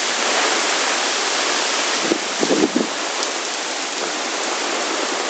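Heavy rain pouring down in strong wind, a steady hiss of falling water, with a few short, louder bumps a little over two seconds in.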